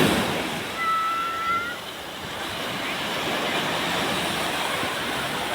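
Sea surf breaking on a beach, a steady rush of waves with wind on the microphone. About a second in, a brief high whistle-like tone sounds over it for about a second.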